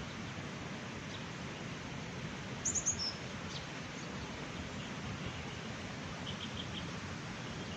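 A small bird chirps a quick run of high notes about three seconds in, then a fainter short series of chirps near the end, over a steady outdoor rushing noise.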